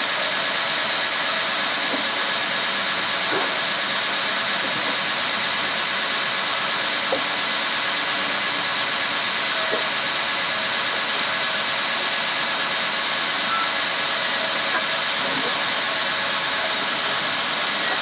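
Woodworking machinery running steadily, a loud even whooshing hiss with no rhythm or change.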